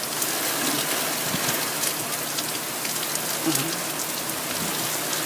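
Steady rain pouring down, with many raindrops ticking sharply close by.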